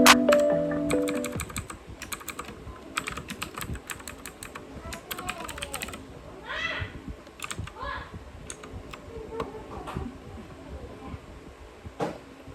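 Typing on a computer keyboard: runs of quick clicking keystrokes, thickest in the first half, with faint voices in the background.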